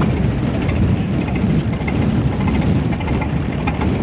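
McCormick-Deering orchard tractor's four-cylinder engine idling at a steady, even pace, loud and smooth.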